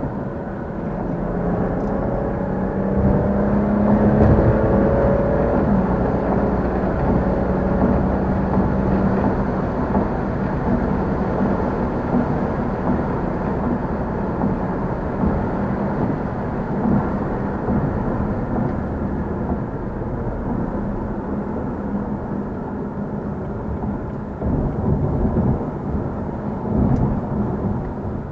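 Car engine and exhaust under way: the engine revs up with rising pitch over the first few seconds, then runs steadily at cruise under a wash of road noise.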